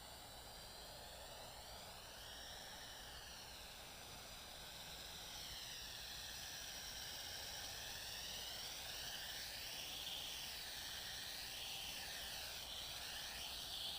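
JXD 509 quadcopter's rotors and motors whining in flight, the pitch rising and falling with throttle changes. The whine grows louder about halfway through.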